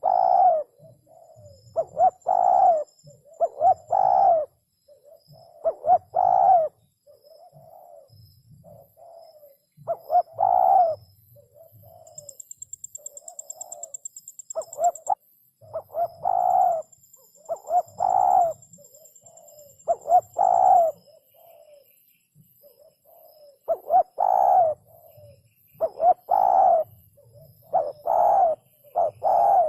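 Spotted dove cooing over and over in short phrases of coos, with brief pauses between bursts. Faint high-pitched buzzing and chirping, like insects, runs in the background.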